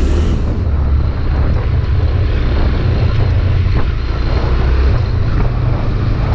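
Honda CB300R single-cylinder engine running while stationary with a steady low drone: the strange noise the owner is complaining about.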